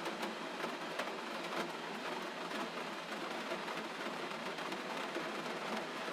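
Gentle rain falling steadily: an even hiss with scattered drop ticks.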